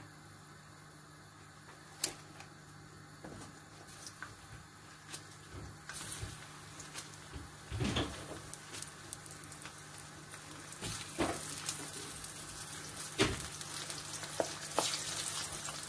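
Plantain slices frying in hot oil in a wok. The sizzle starts about six seconds in and grows louder as more slices go in, with a few sharp knocks as slices drop into the pan.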